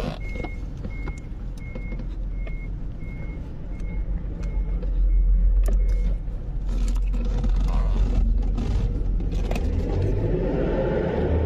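Motor vehicle running with a steady low rumble, while a short high-pitched beep repeats about one and a half times a second, stopping about halfway through.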